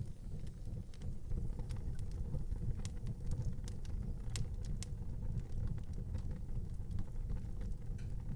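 Wood fire burning in a fireplace: a steady low rumble of flames with scattered sharp crackles and pops, a few louder snaps about halfway through.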